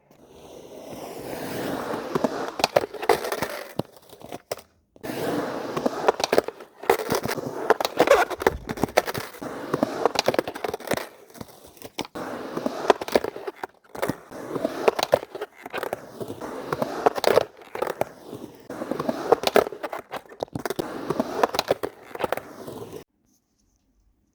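A cat digging in cat litter: scratchy, crackling scrapes in bouts of a few seconds with short pauses between them, the digging a cat does before relieving itself.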